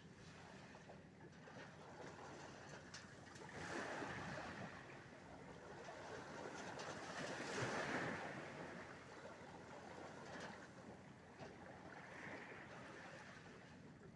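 Sea waves washing, the rush swelling and ebbing about every four seconds, loudest about halfway through.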